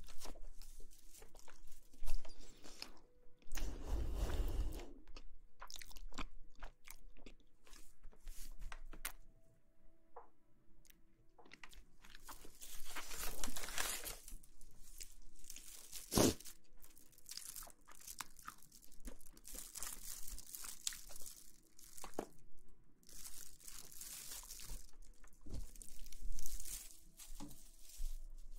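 Close-miked ASMR crunching and rustling: a string of crisp crunches and clicks, with a few longer hissing rustles.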